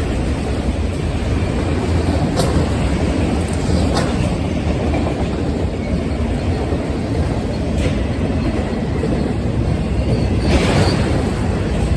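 Florida East Coast Railway freight train rolling past: a steady low rumble of railcars on the track, with an occasional sharp wheel click.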